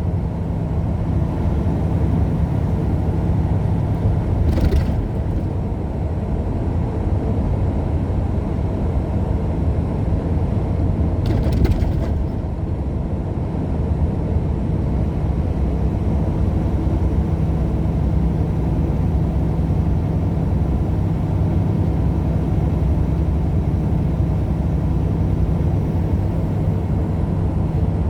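Steady drone of a truck's engine and tyres on the highway, heard from inside the cab, with two brief clicks or rattles about five and twelve seconds in.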